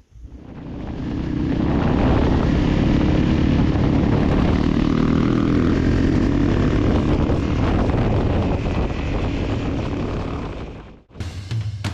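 Motorcycle running at speed, engine and wind noise together. The sound fades in over the first couple of seconds and cuts off suddenly near the end.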